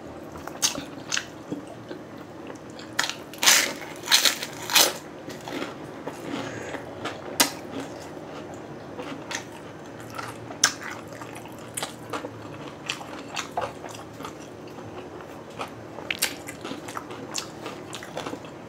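A person chewing crunchy food close to the microphone, with loud crunches bunched about three to five seconds in and single sharp crunches and wet mouth sounds through the rest.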